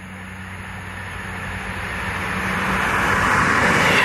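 Passenger train approaching along the line and passing close by, its rumble and rush growing steadily louder until it goes past near the end.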